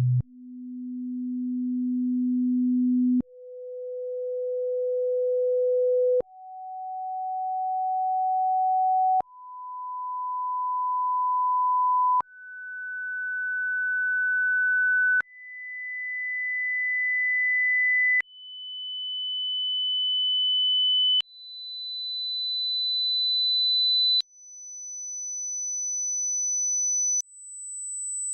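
Hearing-test tones from a pure-tone audiometry demonstration: a series of about ten steady pure tones, each about three seconds long, stepping up in pitch from a low hum to a very high whistle. Each tone starts faint and swells louder, showing a test tone being raised in loudness until it is heard, one audiogram frequency after another.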